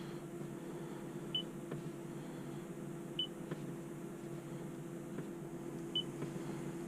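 Three short high beeps from a Toyota Avalon's touchscreen infotainment system as it is tapped, with a few faint clicks, over the steady hum of the idling car's cabin.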